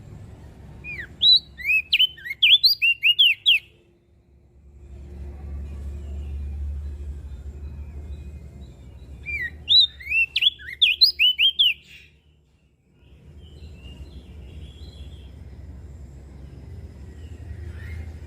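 Crested white-eye (opior jambul) singing two quick phrases about eight seconds apart, each a rapid run of high, sharply sliding chirps. A low rumble runs underneath between the phrases.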